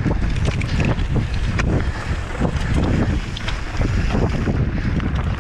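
Wind buffeting the microphone of a mountain bike descending at speed, with frequent knocks and rattles from the bike over rough, rocky ground.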